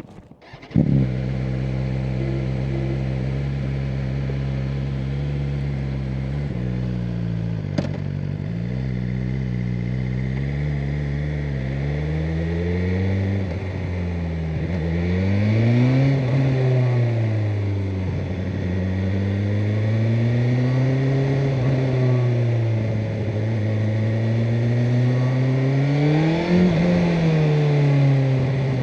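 BMW M1000R Competition's inline-four engine starting abruptly about a second in, then idling steadily. From about halfway on it is ridden, with revs rising and falling over and over through acceleration and gear changes.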